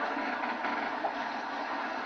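Steam locomotive running along the track, a steady rushing noise with no clear beat.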